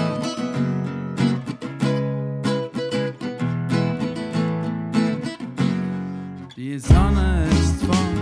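Song intro: an acoustic guitar strums chords in a steady rhythm. About seven seconds in, a fuller band with a heavy bass comes in and the music gets louder.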